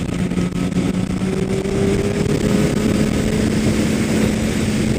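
Kawasaki ZX-10R's inline-four engine running at a steady cruise under wind and road noise. The engine note rises slightly about halfway through.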